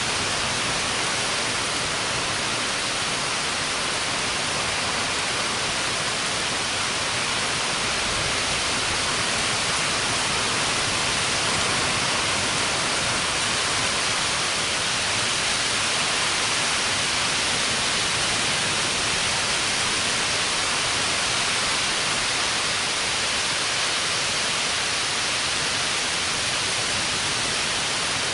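Heavy rain of a summer thunderstorm falling steadily, an even hiss that does not let up, with no thunderclap.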